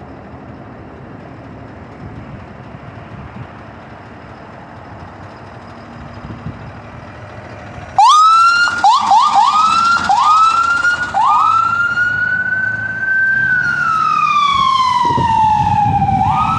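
Low background traffic hum, then about eight seconds in an emergency vehicle's electronic siren starts loudly with a run of short rising whoops and settles into a slow wail that climbs, falls and climbs again. A heavy vehicle's engine rumbles under it near the end.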